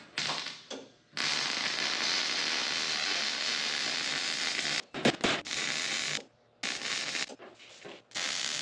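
Electric arc welder welding thin sheet-metal tin: a steady crackling hiss in runs of a few seconds, the longest first, stopping and restarting several times.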